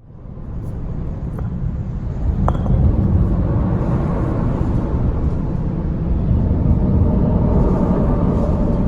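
Steady low rumble, with two light clinks a second apart in the first few seconds.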